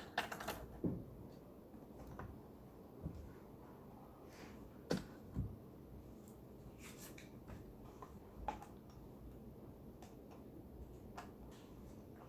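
Library reading-room ambience: a low steady hum under scattered small clicks, taps and knocks, such as objects being set down and people shifting at their desks. The sharpest knocks come near the start and about five seconds in.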